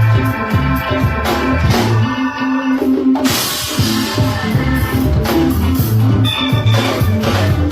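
Live rock band playing: drum kit, bass notes and held keyboard chords, with a cymbal crash about three seconds in.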